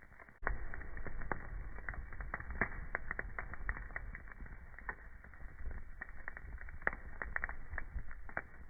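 Wood fire burning in a fireplace, crackling with many irregular sharp pops over a low steady rumble that comes in about half a second in.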